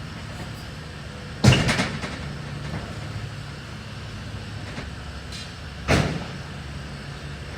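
Junk being thrown and dropped into a truck during a cleanout: two loud bangs with a short ring, about a second and a half in and again near six seconds, over a steady low hum.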